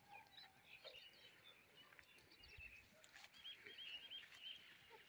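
Near silence with faint bird chirping, including a quick run of short, high chirps about three and a half seconds in.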